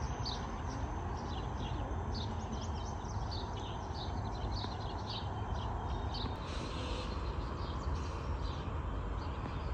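Small birds chirping over and over in short, quick notes over a steady low rumble.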